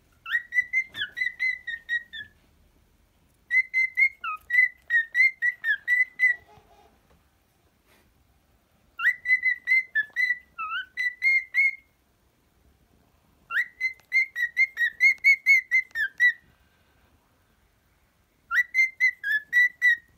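Cockatiel whistling its song: five phrases of quick repeated whistled notes, about five a second, each phrase two to three seconds long with short pauses between.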